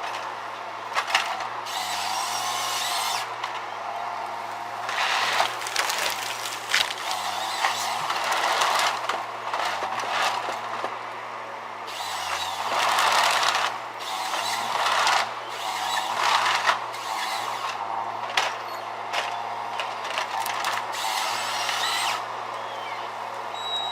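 Tree-felling machine working: its engine runs steadily and dips briefly in pitch again and again under load, beneath repeated bursts of harsh cutting and mechanical noise with sharp clicks.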